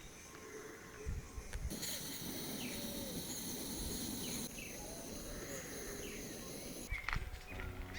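Outdoor ambience of insects with a steady high-pitched drone and birds chirping now and then. The drone starts suddenly about two seconds in and changes abruptly twice more, like cuts between takes.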